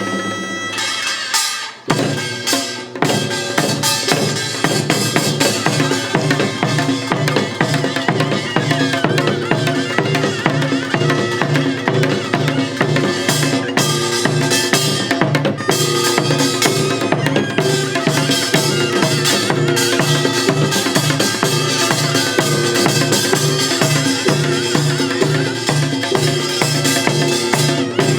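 Korean pungmul band playing pangut, its gongs and drums beating a fast, steady rhythm over ringing gong tones, with a brief drop near two seconds in before the full band comes back in.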